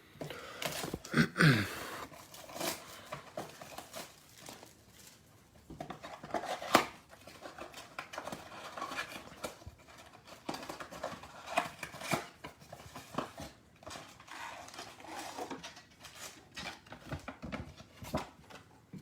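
A trading-card mega box being opened and handled: cutting or tearing at the cardboard and wrapping, with scattered clicks, scrapes and plastic crinkles.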